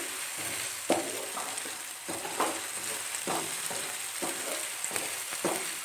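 Chicken pieces and onions sizzling as they fry in oil in a metal wok, stirred with a wooden spoon. The spoon scrapes the pan in short strokes every half second to a second over the steady sizzle.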